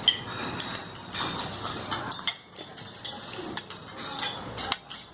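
Cutlery and dishes clinking at a dinner table: a run of short, irregular clinks of spoons and chopsticks against bowls and plates, one sharp clink right at the start.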